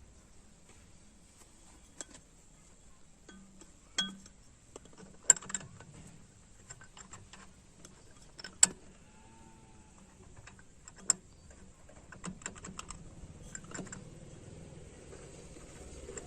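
Metal tools and parts being handled during tractor servicing: scattered sharp clinks and knocks, a few much louder than the rest, with a run of quicker small clicks and rattles near the end.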